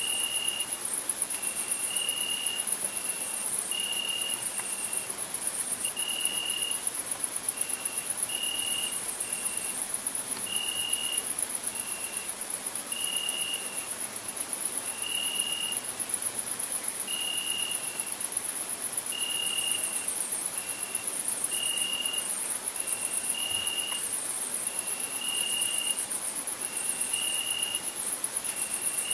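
Crickets singing: a continuous, very high, fast-pulsing trill, with a lower cricket voice giving short trills about once a second, some in pairs.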